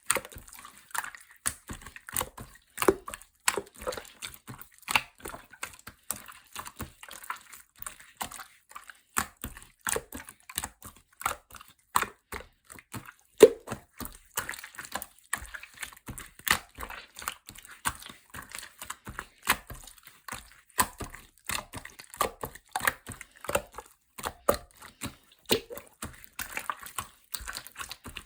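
Clear orange slime being pressed and folded by hand, making a quick, irregular run of small wet clicks and pops, several a second.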